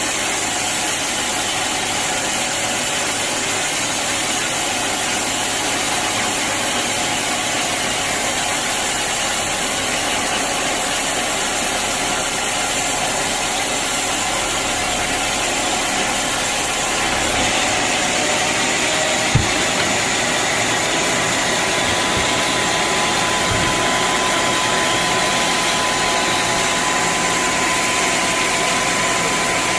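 Band sawmill machinery running steadily as it saws a teak log. Its sound shifts a little over halfway through, after which a thin steady whine joins it, and a single sharp knock sounds near the middle.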